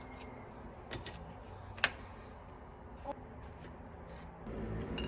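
A few short, light clicks over a low steady hum, the sharpest about two seconds in; a louder low rumbling noise sets in near the end.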